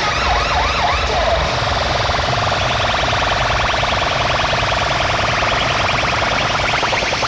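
Loud DJ sound system playing electronic siren effects over heavy bass. Fast wailing sweeps fill the first second and a half, then give way to a steady high tone with rapid chirping pulses.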